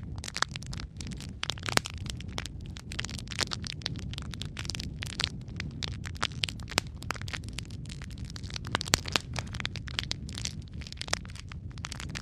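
Wood logs burning in a fireplace: dense, irregular crackling and popping over a steady low rumble of the flames.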